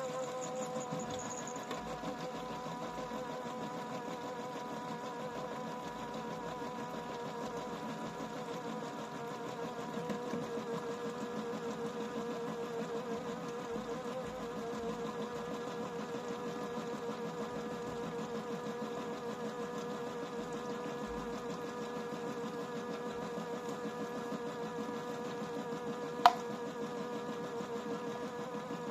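Toy Miele W1 washing machine's small electric motor running steadily with a whining hum, and a single sharp click near the end.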